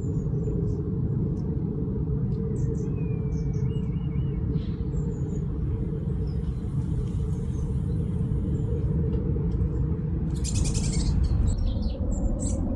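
Small garden birds chirping and calling over a steady low rumble, with a falling whistle about two and a half seconds in and a short rattling burst about ten and a half seconds in.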